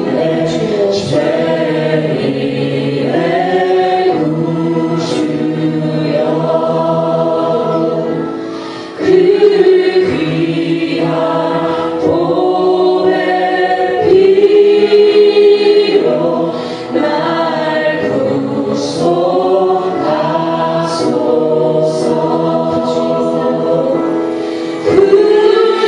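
Worship music: a group of voices singing a slow Korean hymn together, long held notes in phrases of a few seconds.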